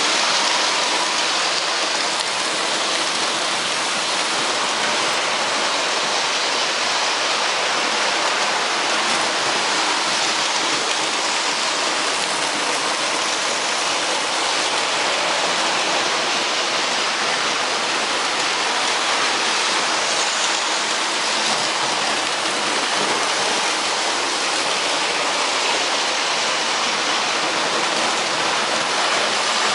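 Steady, even rushing noise, like rain or running water, with no separate knocks or tones in it.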